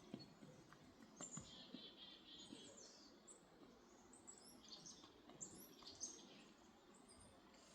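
Faint birdsong: a series of short, high chirping and twittering notes over quiet outdoor background, with a few soft clicks early on.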